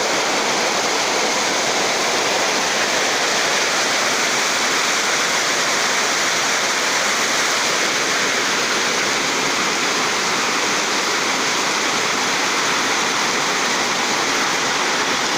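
Heavy rain falling steadily, a constant loud hiss of water.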